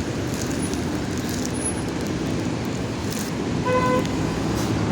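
Steady road traffic noise, with one short car horn toot about three and a half seconds in.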